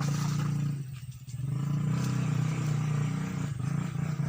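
A motorcycle engine running steadily, with a brief dip about a second in.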